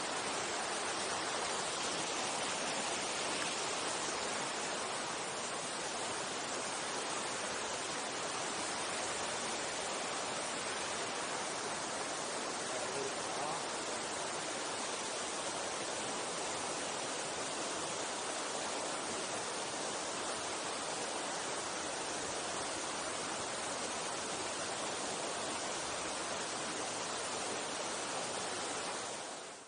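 Mountain stream water rushing steadily over rocks, an even hiss, briefly dipping away right at the end.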